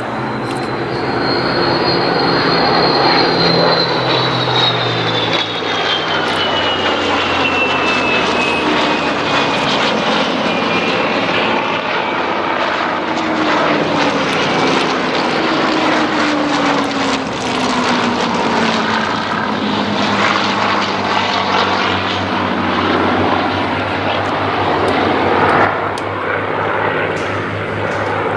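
Rolls-Royce Merlin V12 piston engines of a formation of Spitfires and Hurricanes flying past, a loud steady drone whose pitch falls slowly over several seconds as the aircraft go by.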